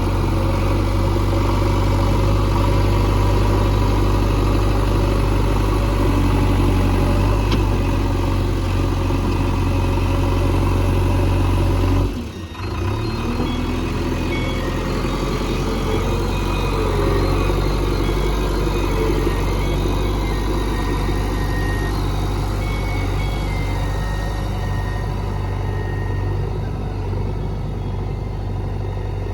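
JCB 3DX backhoe loader's diesel engine running steadily with a deep hum, briefly dropping away about twelve seconds in before carrying on.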